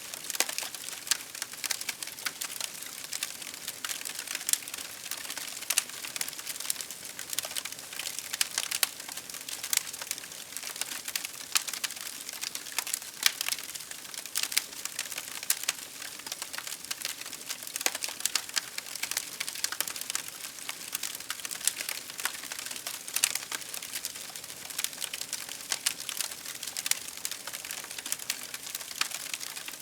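Wood fire crackling, with dense irregular pops and snaps over a soft hiss.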